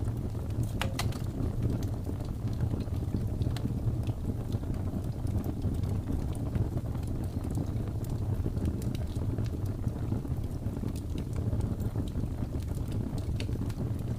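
Wood fire crackling in a fireplace: scattered small pops and snaps, one sharper about a second in, over a steady low rumble.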